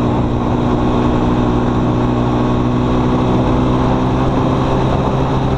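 ATV engine running steadily under heavy throttle at road speed, a constant even drone with no gear changes or let-up.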